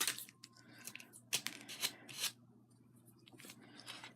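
Small handling noises from paper and craft pieces: a handful of short rustles and clicks, the loudest right at the start and about 1.3 to 2.3 seconds in, over a faint steady hum.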